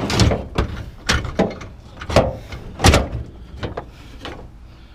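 Metal bed rails knocking and clanking as they are handled and hung off the back of a load of scrap, in a run of irregular clanks with the loudest a little after two and three seconds in.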